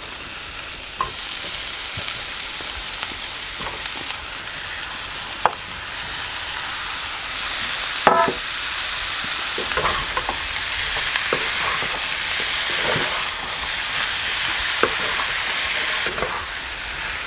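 Onions and tomato wedges sizzling in butter in a hot kadai, a steady frying hiss, with scattered clicks and knocks of utensils against the pan as the tomatoes are tipped in and stirred. A sharper ringing clink comes about eight seconds in.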